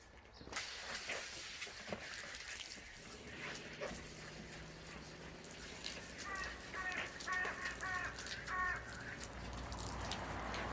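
An animal calling about five times in short, evenly spaced calls in the second half, over a steady background hiss.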